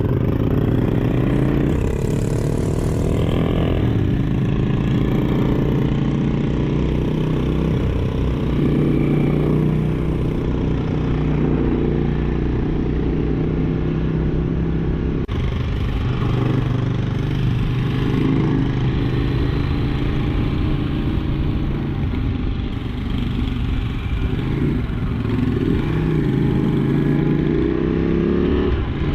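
KTM 790 Duke's parallel-twin engine heard from onboard while riding, revving up and easing off again as it pulls through the gears, with a rising run of revs near the start and another near the end.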